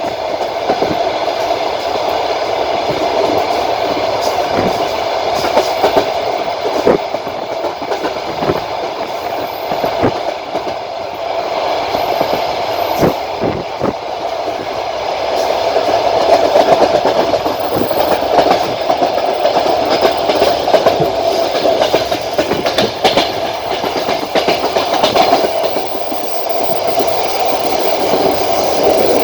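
Passenger train running at speed, heard from a carriage window: a steady roar of the rolling stock with the clack of wheels over rail joints.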